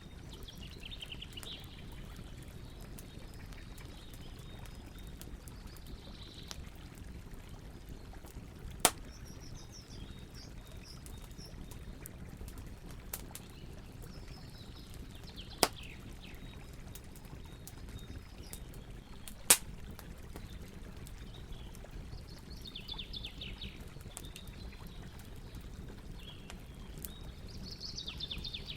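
Campfire burning with a steady low rush and three sharp pops of crackling wood spread through. Birds chirp briefly every few seconds.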